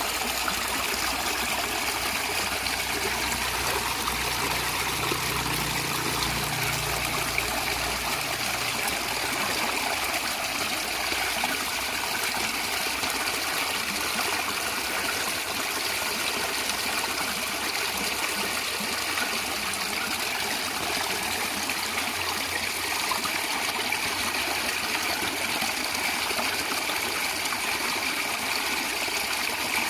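A stream of water gurgling and trickling steadily, with a faint low hum beneath it for the first eight seconds or so.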